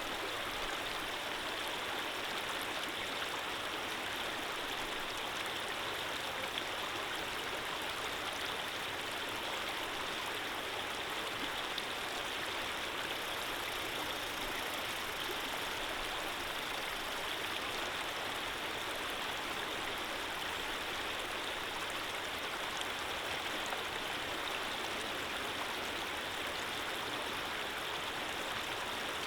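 Running water flowing steadily, a constant even rush without breaks or separate splashes.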